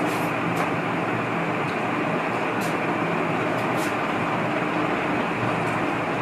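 Steady, even background noise with a faint low hum, and a few brief high scratches of a marker writing on a whiteboard.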